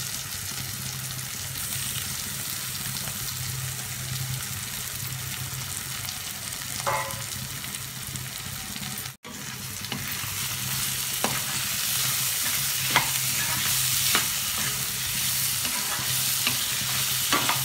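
Paneer cubes and capsicum frying in oil in a non-stick pan, a steady sizzling hiss over a low steady hum. After a brief break about halfway, a metal spatula scrapes and taps against the pan as the paneer is stirred in.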